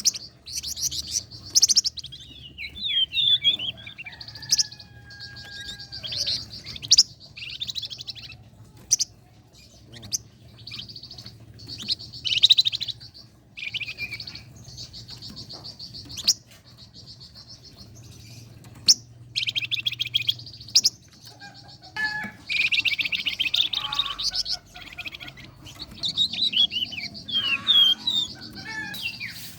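Flamboyan songbird singing energetically: fast high chirps and trills in quick bursts with short pauses between phrases.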